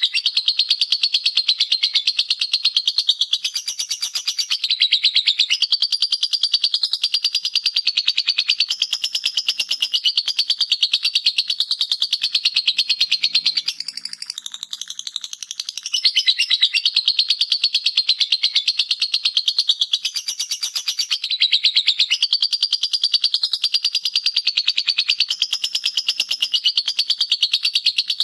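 Lovebird singing a long 'ngekek' bout: a fast, unbroken chattering trill of high notes that eases off for a couple of seconds about 14 seconds in, then picks up again.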